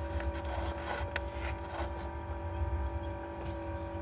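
Steady mechanical hum from a small motor: a low rumble with several constant tones above it, and a few faint clicks.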